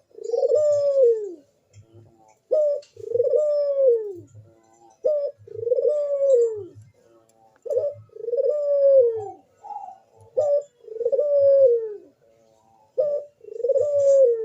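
Burung puter (ringneck dove) cooing in breeding condition: six phrases, each a short note followed by a long falling coo, repeated about every two and a half seconds.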